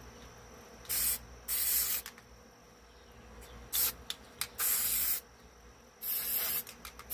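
Aerosol spray-adhesive can hissing in about five short bursts, each under a second, with pauses between them, as glue is sprayed around small holes.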